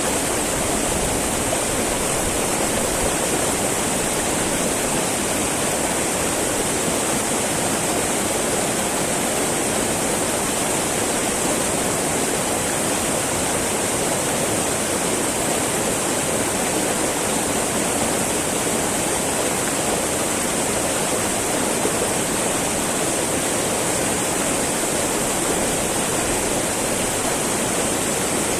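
Small mountain river babbling over rocks, a steady, unbroken rush of flowing water.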